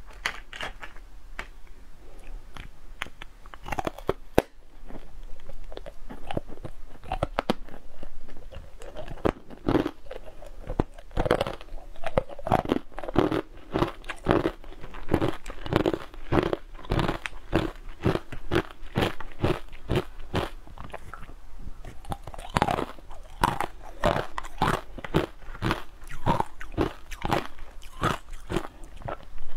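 Close-up biting and chewing of a crumbly green powdered frozen food, a long run of sharp cracks coming several to a second, densest through the middle and again near the end.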